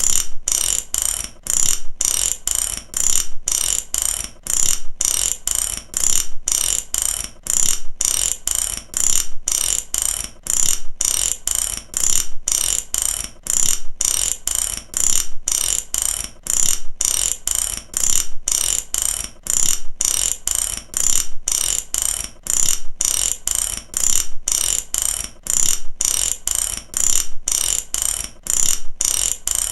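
Mechanical ratchet clicking in a steady, even rhythm, about two bursts of rapid clicks a second, repeating without change.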